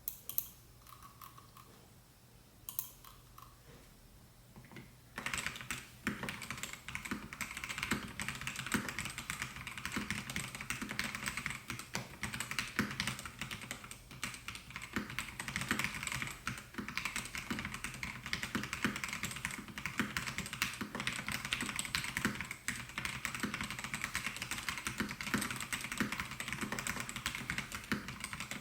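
Melgeek Mojo68 mechanical keyboard with white Pro switches being typed on: a few separate keystrokes, then about five seconds in, fast continuous typing.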